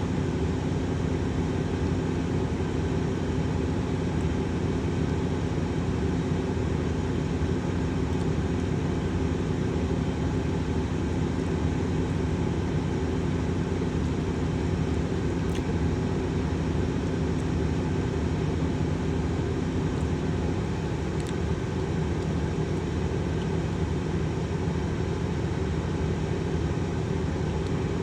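A tanker truck's engine running steadily at a constant speed, a low, even drone. One of its steady tones drops away about two-thirds of the way through.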